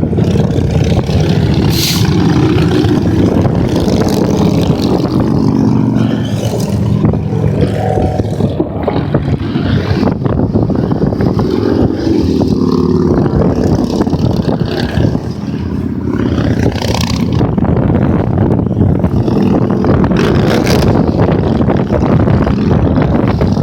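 A stream of motorcycles riding past on a highway, engines running continuously, with engine notes swelling and fading as groups of bikes go by.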